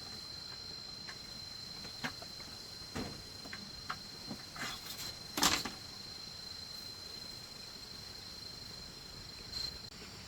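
Insects chirring in a steady high-pitched drone, with a few scattered knocks and clatters of handling, the loudest about halfway through.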